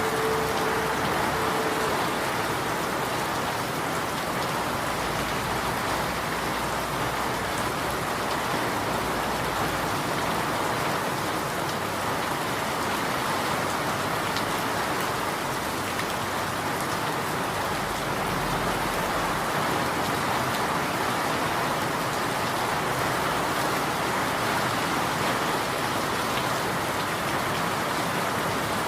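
Steady rain falling and pattering on surfaces, an even rushing hiss that holds constant. A faint steady tone sounds under it for the first couple of seconds.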